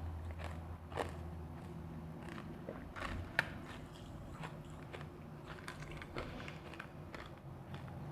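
Close-up crunching of refrozen powdery ice being bitten and chewed, a string of short crisp crunches, the sharpest about a second in and about three and a half seconds in.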